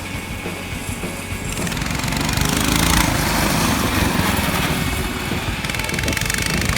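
Coleman BT200X mini bikes' small single-cylinder four-stroke engines running hard under throttle while racing, the engine note rising and falling.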